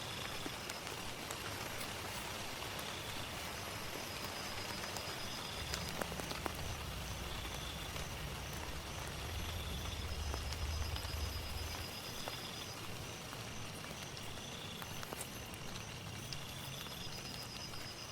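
Steady heavy rain falling, with scattered sharp drop ticks. A low rumble swells in about six seconds in and fades out about halfway through.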